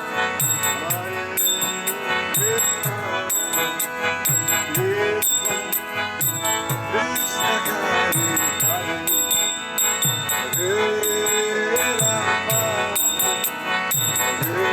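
Kirtan music: hand cymbals ringing in a quick, steady rhythm over a hand drum whose low strokes drop in pitch, with sustained melodic tones on top.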